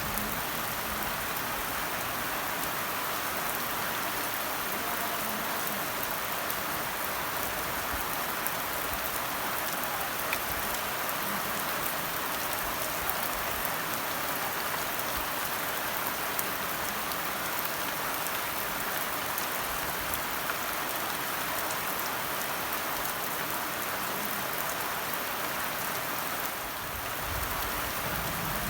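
Steady rainfall, a continuous hiss of rain with scattered drop ticks, dipping slightly for a moment near the end.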